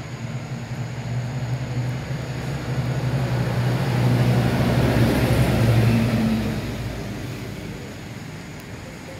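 A motor vehicle's engine passing by: a low hum that grows louder, peaks about five to six seconds in, then fades away.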